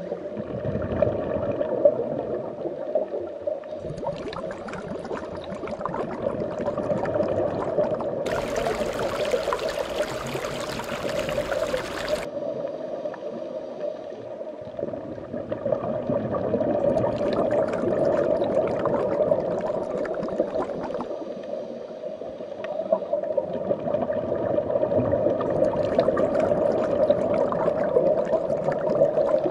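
Bubbling, gurgling underwater water sounds that go on steadily and shift in texture every few seconds, with a stretch of brighter hiss about eight seconds in that lasts some four seconds.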